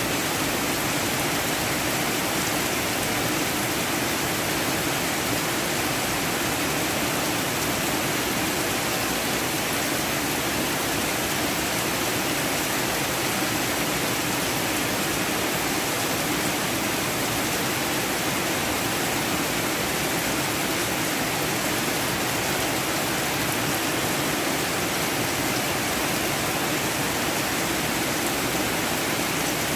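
Heavy storm rain falling steadily, a dense unbroken hiss.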